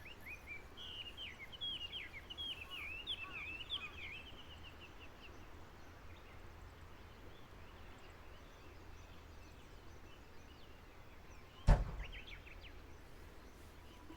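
A songbird singing a fast, twittering run of short high chirps for about the first five seconds, over faint outdoor background noise. Near the end a single sharp knock is the loudest sound, followed by a few faint chirps.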